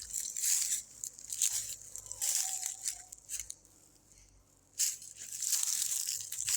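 Footsteps crunching through dry leaves and brush, a step about every second, pausing briefly a little after the middle.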